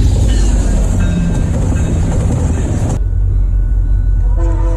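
A train passing close by, with a heavy, continuous rumble of wheels on rail. The sound cuts abruptly about three seconds in to another train's rumble, and several steady tones start together near the end.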